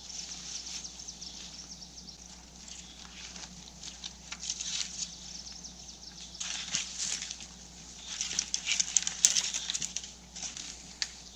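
Spruce boughs rustling and crackling as they are handled and laid on a brush shelter, in uneven bursts that get louder in the second half.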